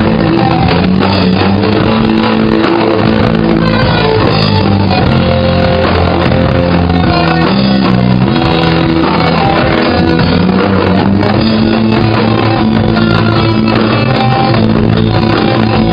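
Rock band playing live, guitars and bass carrying an instrumental passage without singing, loud and continuous.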